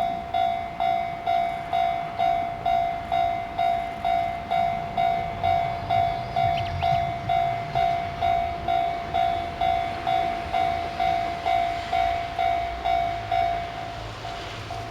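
Railway level crossing alarm ringing, a clear bell-like tone struck about twice a second, each stroke fading quickly. It signals that a train is approaching. A low rumble rises beneath it around the middle, and the ringing grows softer near the end.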